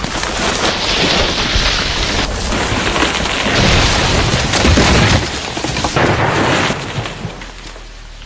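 A run of loud booms and rumbling, crashing noise that fades away over the last second or so.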